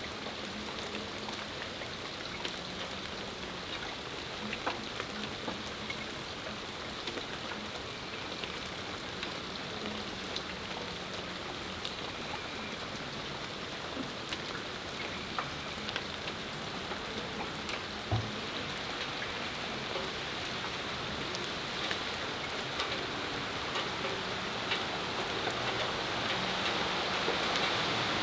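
Steady rain falling, with individual drops ticking on nearby surfaces. The hiss grows gradually louder toward the end.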